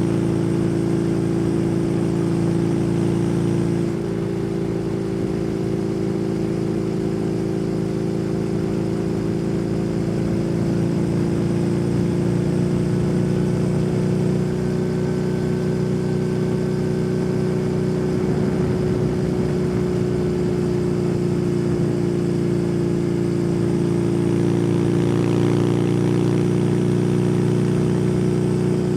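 Kawasaki W800's air-cooled parallel-twin engine breathing through an SC Project aftermarket exhaust, pulling steadily while the motorcycle is ridden, its note dipping slightly about four seconds in and then slowly climbing.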